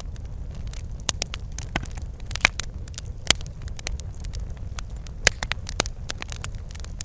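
Wood fire crackling in a fireplace: irregular sharp pops and snaps over a steady low rumble of the burning fire, with a few louder pops about two and a half, three and five seconds in.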